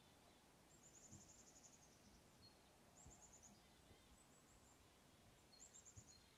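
Near silence, with a faint songbird giving a short, high, rapid trill a few times.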